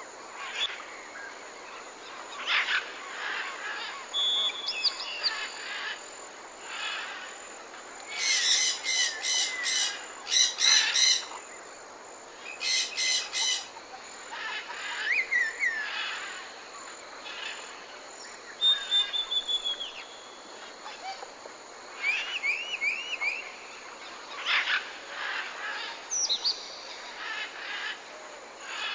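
Several tropical forest birds calling: chirps, whistles and rising and falling notes, loudest in a harsh rapid series of notes about eight seconds in and again around thirteen seconds, over a steady high hiss.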